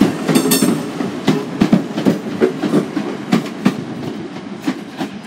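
TransPennine Express Class 185 diesel multiple unit pulling out of the platform, its diesel engine running under power. Its wheels give sharp irregular clicks over the rail joints. The sound fades as the train draws away in the last couple of seconds.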